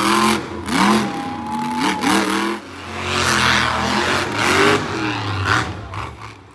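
Monster truck engine revving in repeated throttle blips, its pitch sweeping up and dropping back several times, with a sustained full-throttle roar in the middle.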